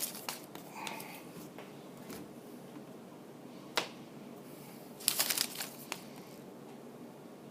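Sports cards and their wrappers and packaging being handled and cleared off a table: scattered light clicks and rustles, a sharp tap a little before four seconds in, and a brief flurry of rustling around five seconds in.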